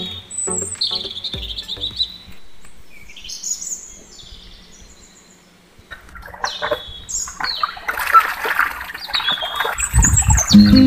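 Birds chirping in short gliding calls. From about six seconds in, a busier run of clicks comes as the miniature toy hand pump's lever is worked. Background music comes in near the end.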